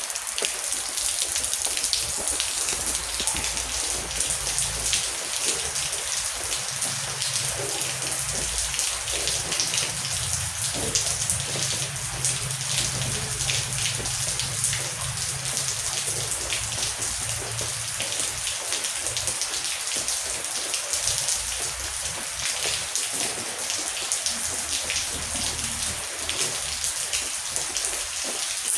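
Heavy rain falling steadily, with dense pattering drops. Through the middle, a low, drawn-out rumble of distant thunder rolls under it.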